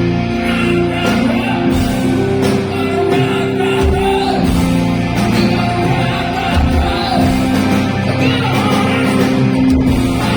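Live rock band playing with a voice singing over it, recorded from the hall at a loud, even level.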